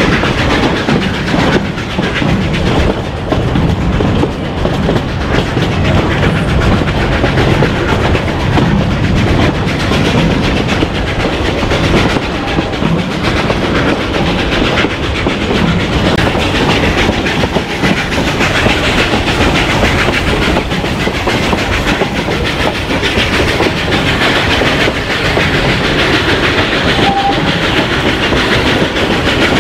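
Narrow-gauge steam train cars rolling along the track, a steady rumble and rattle with wheels clicking over the rail joints, heard from an open-sided car.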